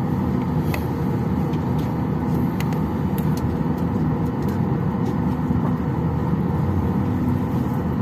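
Steady cabin noise inside a Boeing 737-800 airliner: a low rushing hum of air and machinery with a faint steady tone in it, and a few faint clicks.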